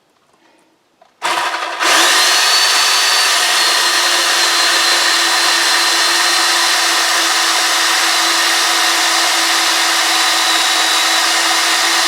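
Electric chainsaw starting about a second in and then running steadily with a high whine, cutting small limb wood for firewood.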